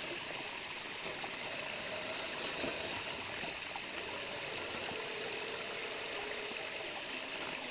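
Steady rush of flowing water over rocks. In the second half a faint electric motor whine from the Traxxas TRX-4 RC crawler sets in, holds for a couple of seconds, then fades.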